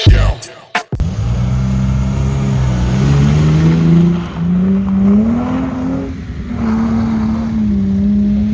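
BMW E46's engine pulling hard, its pitch climbing steadily for a few seconds, dipping briefly, then holding at high revs. Intro music cuts off about a second in.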